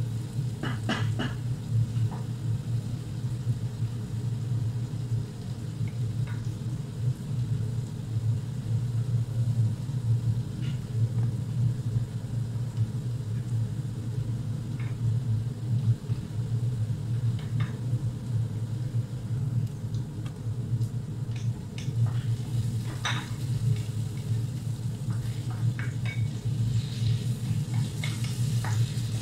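Chopped onion and garlic sizzling in a pot on a gas stove while a wooden spoon stirs and now and then knocks against the pot, over a steady low hum. Diced tomatoes go into the pot in the second half and are stirred in.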